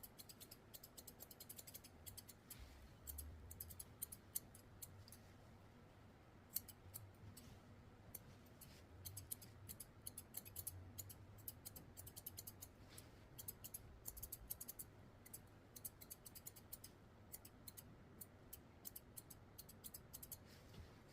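Grooming scissors snipping hair, faint, in quick irregular runs of small clicks.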